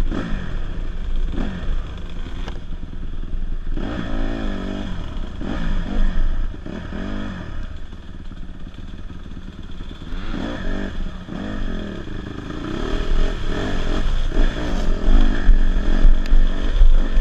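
Small dirt bike engine revving, its pitch repeatedly rising and falling as the throttle is opened and closed.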